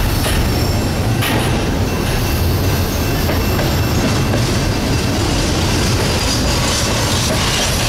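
Double-stack intermodal well cars rolling past at close range: a steady heavy rumble of steel wheels on rail, with a few clanks from joints and couplers and a faint high wheel squeal.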